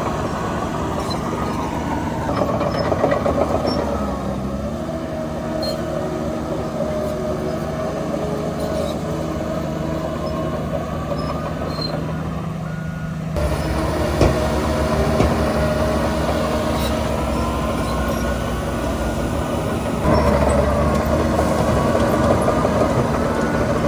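Heavy diesel machinery at work, the engines of a bulldozer and dump trucks running steadily, with the engine pitch rising and falling at times. The sound changes abruptly and gets louder about 13 seconds in.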